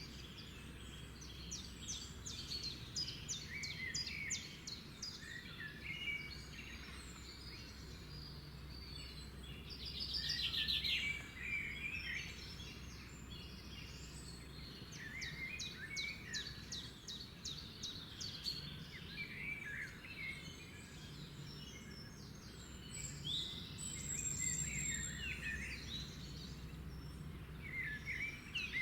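Several wild birds singing and calling at once: overlapping chirps, whistled phrases and fast trills, with a louder burst of rapid trilling about ten seconds in, over a steady low background hum.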